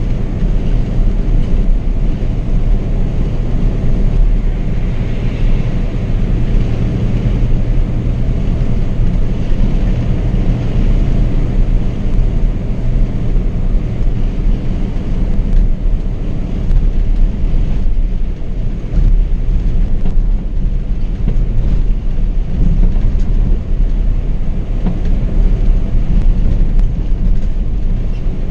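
Scania K420 double-decker coach cruising on the highway: a loud, steady low rumble of the engine and drivetrain mixed with road and tyre noise.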